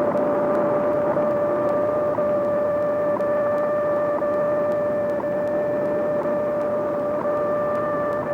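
WWVH shortwave time-signal broadcast: a steady tone held throughout with a faint tick every second, over radio hiss.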